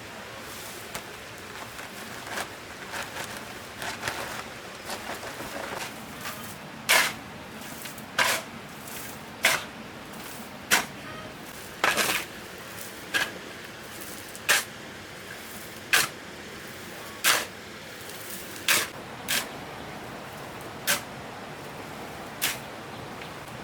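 A hand tool striking a hard or gritty surface in a steady rhythm, about one sharp stroke every second and a half, after a few seconds of lighter tapping and rustling.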